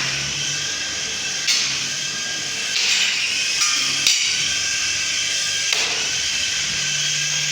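Small electric motor of a radio-controlled helicopter whirring steadily with a high whine, broken by a few sharp knocks, three of them clearly.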